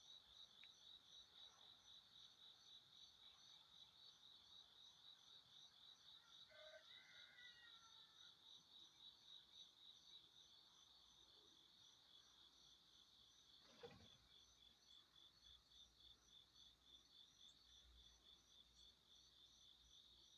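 Faint insect chirping, a steady high-pitched pulsing of about four or five pulses a second. A brief faint bird call comes about six to seven seconds in, and a single soft knock near fourteen seconds.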